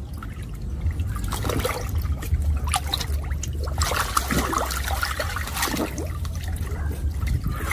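Swimming-pool water splashing and sloshing as children swim, in irregular bursts over a steady low hum.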